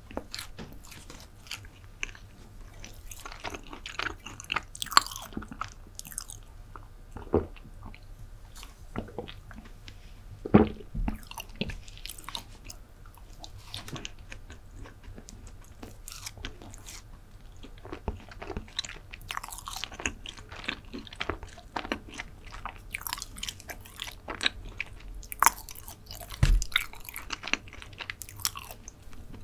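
Close-miked chewing of a chocolate chip brownie: soft crumbly crunches and wet mouth clicks, with a couple of louder thumps, about ten seconds in and near the end.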